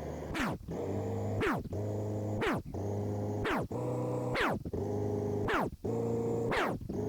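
Electronic-sounding sweeps falling sharply in pitch, about one a second, over a steady layered hum.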